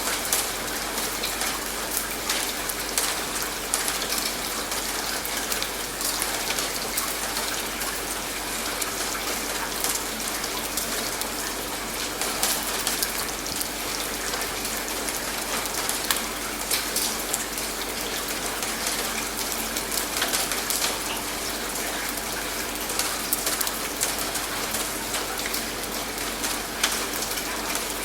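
Steady rain falling, with frequent sharp drop hits on a surface.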